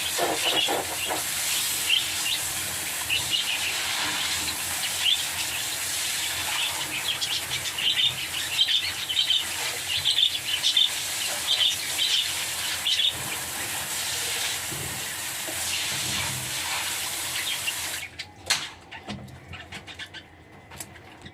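Lovebirds chirping repeatedly in short, high calls over a steady hiss, which cuts off abruptly near the end.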